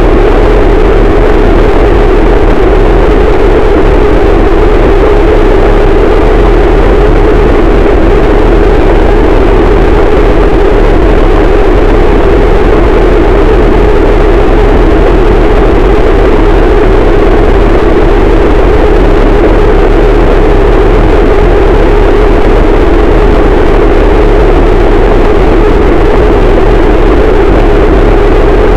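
Harsh noise wall: a dense, static wall of distorted noise at full volume, unchanging throughout, with a thick hum in the low middle and a deep rumble beneath.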